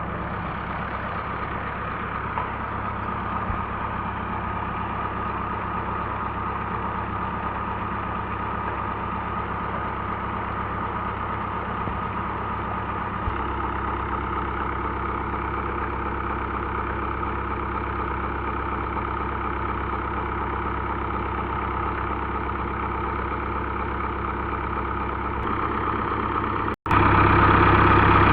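Tractor diesel engine running steadily at a constant speed, powering a tubewell water pump. Near the end the sound drops out for an instant and comes back louder.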